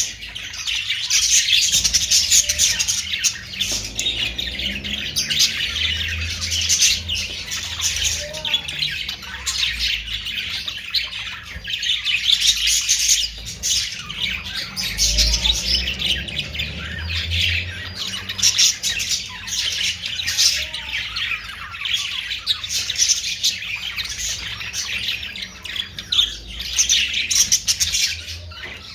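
Many small pet parrots, Australian parrots, chattering and chirping together without pause, with squawks mixed in. The calling swells and eases in waves every second or two.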